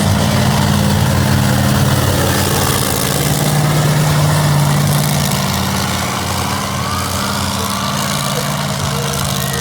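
Monster truck engine running steadily at low speed, a deep even drone that eases slightly about halfway through.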